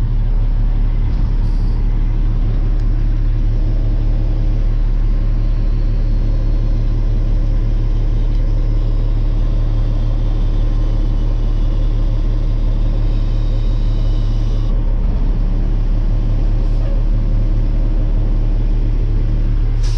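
Diesel dump truck engine running steadily, heard from the cab, while the hydraulic hoist raises the dump body to tip the load; a faint high whine comes and goes in the middle.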